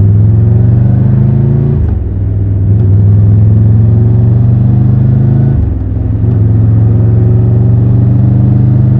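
Triumph Tiger 1200 Rally Pro's 1160 cc three-cylinder engine pulling under acceleration, its pitch climbing with road speed. It shifts up twice, about two seconds in and again near six seconds, each time the pitch dropping with a short dip in loudness before it climbs again.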